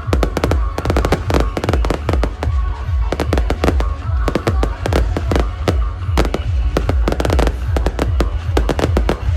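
Fireworks going off in a dense, rapid crackle of sharp pops with deep booms underneath, with no let-up; music plays under it.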